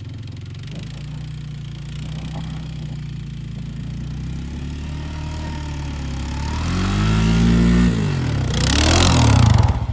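Small off-road vehicle engine running steadily, then revving up about seven seconds in, easing off, and rising again to a loud, rough rush near the end.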